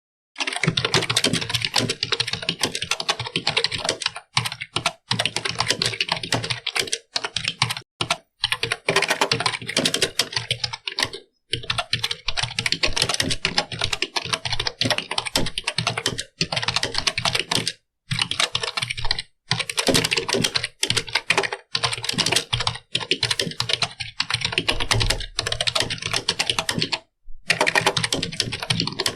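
Fast, continuous typing on a computer keyboard: a dense run of key clicks, broken by brief pauses every few seconds.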